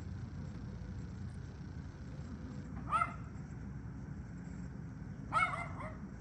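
A dog barking: one bark about three seconds in, then a quick run of several barks just after five seconds, over a steady low background noise.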